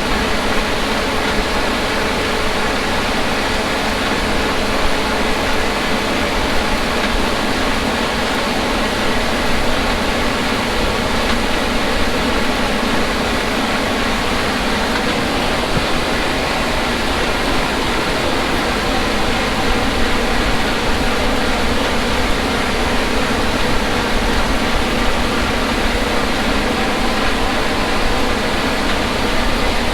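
Heavy harvest machinery running steadily: an unchanging engine drone under a constant noise.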